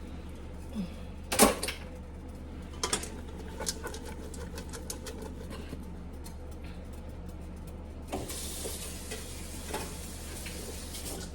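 Utensil knocking and scraping in a pot as fettuccine is stirred into a simmering Alfredo sauce, with the sharpest knock about a second and a half in. From about eight seconds in a steady hiss sets in as water is added to the pot.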